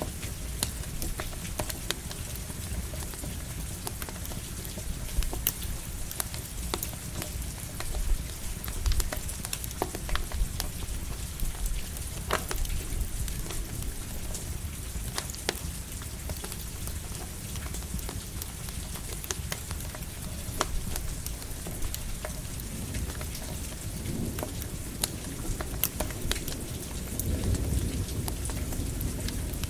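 Campfire crackling with sharp pops over a steady patter of light rain, and a low rumble of thunder that swells near the end.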